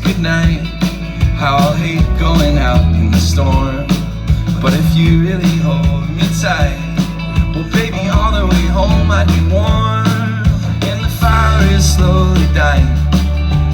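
Live band playing a Christmas song: a singer over a steady beat and a bass line.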